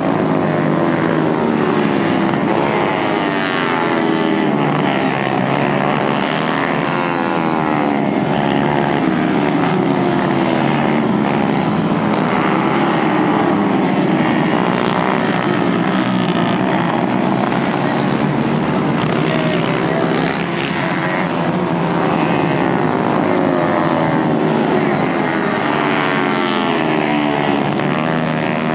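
A pack of 110 cc racing motorcycles running hard, many engines overlapping, their pitch repeatedly rising and falling as they accelerate, shift and brake.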